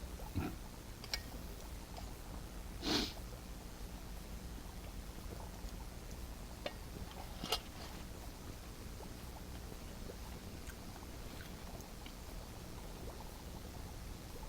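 Wood campfire crackling with a few scattered sharp pops over a steady low background rumble, and one short, slightly longer noisy burst about three seconds in.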